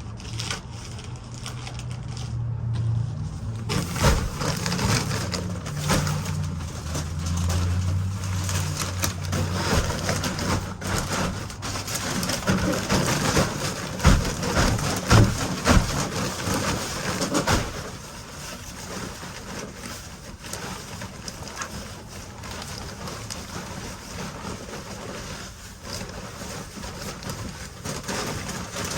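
Chickens making low cooing murmurs, mixed with rustling and scattered knocks, loudest about halfway through.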